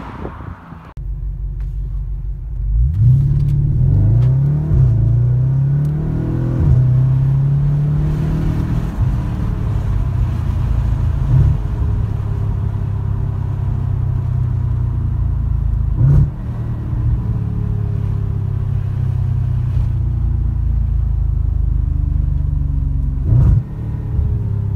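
Audi RS4 B8's 4.2-litre V8 with a custom straight-pipe flap exhaust, heard from inside the cabin. It accelerates hard through several gears a few seconds in, its pitch climbing and dropping at each shift, then settles into a steady low drone broken by a few sharp cracks.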